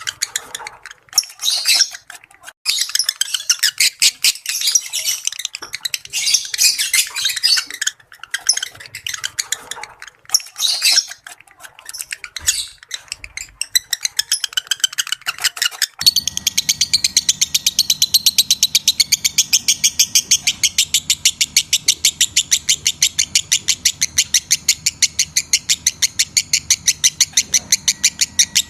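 Lovebirds chattering in fast, irregular high chirps. About halfway through, the sound changes abruptly to one long run of rapid, evenly spaced chirps over a faint steady hum.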